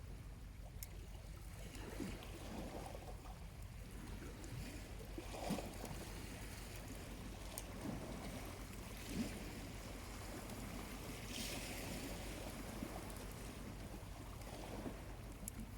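Small waves lapping gently on a quiet beach, coming in soft swells every few seconds, with a few faint crackles from a charcoal campfire.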